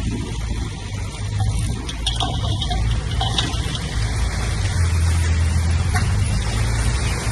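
Heavy diesel earthmoving machinery running with a low, steady engine drone, over a haze of mechanical noise and scattered clanks. The engine note strengthens about halfway through.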